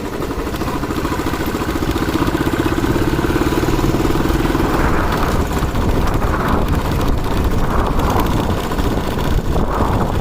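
Motorcycle engine running under way, picked up by a helmet-mounted mic along with wind rushing over the microphone. The engine gets a little louder about two seconds in.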